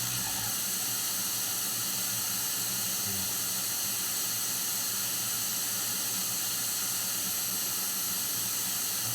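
Steady computer-generated white-noise hiss from EVP-making software, strongest in the upper range, with a faint low hum beneath it.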